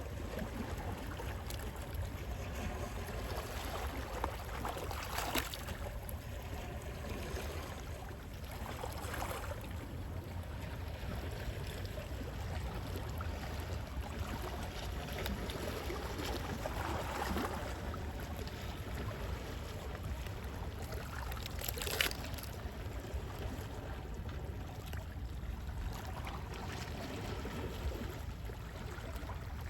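Calm sea waves lapping and washing, over a steady low rumble, with a few brief splashes.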